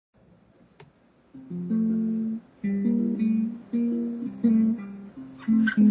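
Baritone ukulele playing an instrumental intro: chords struck one after another, about one a second, each ringing and fading before the next, starting about a second and a half in after a faint click.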